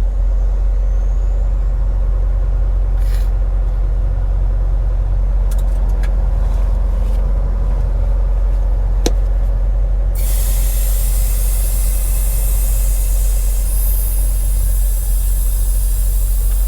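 Semi truck's diesel engine running with a steady low rumble heard in the cab, with a few clicks; about ten seconds in, a steady air hiss starts suddenly and keeps going.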